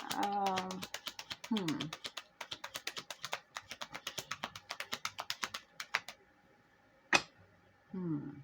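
A deck of tarot cards being shuffled by hand: rapid light clicks, about seven a second, stopping about six seconds in, then one sharp tap just after seven seconds.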